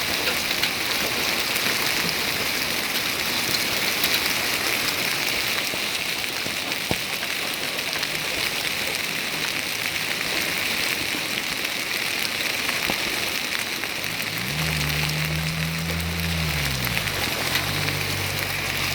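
Hailstorm with rain: a dense, steady patter of hailstones and raindrops pelting down. About three-quarters of the way through, a low engine hum rises, holds and fades away as a vehicle passes.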